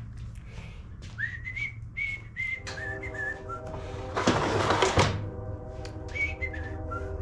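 A man whistling a tune in short notes while working, over small clicks of tools and parts being handled. About four seconds in comes a loud burst of noise lasting about a second.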